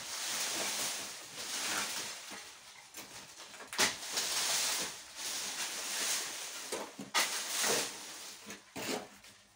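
Dry brush and cut branches rustling and crackling in bursts as they are gathered and dragged, with a few sharp snaps of twigs.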